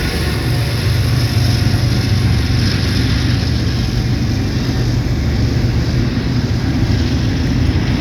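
Double-stack intermodal freight train rolling past close by: a loud, steady rumble of steel wheels on the rails and the cars going by.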